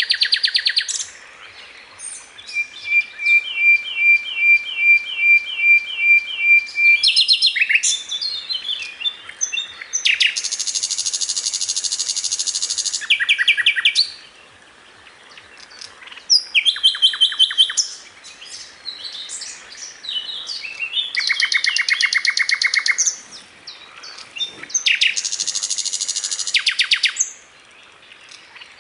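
A sikatan londo flycatcher singing a long, varied song: a run of evenly repeated short notes, fast rattling trills and quick chattering phrases, broken by brief pauses.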